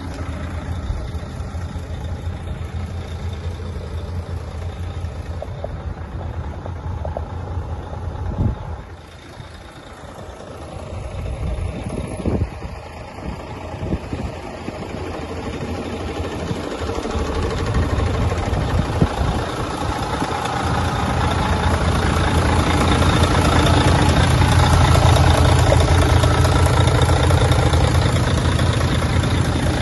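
Mercedes-Benz 4140 truck's V6 diesel engine running at idle. It dips quieter about a third of the way in, then grows steadily louder through the second half.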